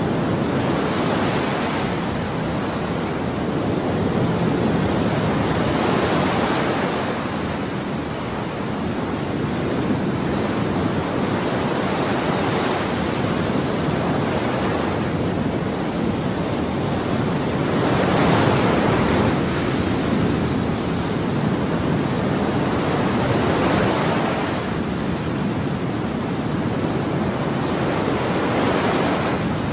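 Ocean waves breaking and washing on a shore, a continuous rushing surf that swells and ebbs every few seconds, strongest swell a little past halfway.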